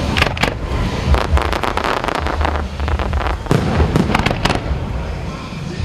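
Fireworks going off in a rapid, irregular barrage of bangs and crackles over a continuous low rumble.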